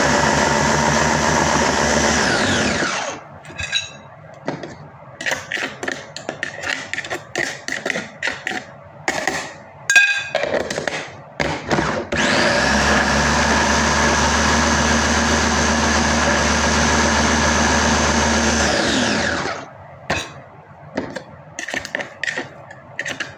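Electric blender grinding garlic, onion and ginger into a thick, dry paste. It runs in two bursts. It winds down with a falling whine about two and a half seconds in, then comes several seconds of knocking and clattering from the jar. It starts up again with a rising whine, runs steadily for about seven seconds and winds down once more.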